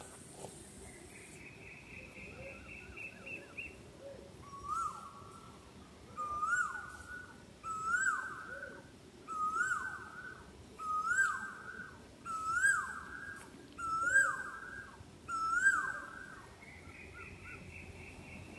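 A bird calling over and over, about one call every second and a half, each a short note that rises then falls. A buzzy trill comes before the calls start and again near the end.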